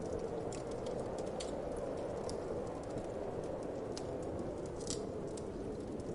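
Wood fire crackling, with many small, sharp, irregular pops over a steady whoosh of wind.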